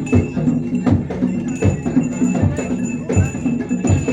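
Live bantengan percussion ensemble playing a steady beat: repeated drum strokes over held low gong-like tones and a high steady ringing.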